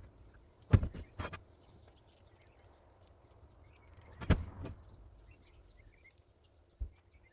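A few short, sharp knocks: a cluster of three in the first second and a half, two more around four seconds in and a single one near the end. Faint bird chirps sound throughout.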